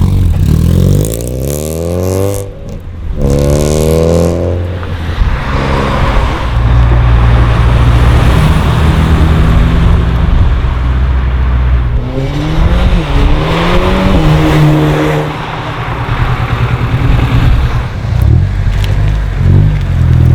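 Modified cars' engines accelerating hard on a race track. One engine revs up twice in quick succession, with a short break for a gear change. A loud steady low engine drone follows, with another engine rising and falling in pitch past the middle.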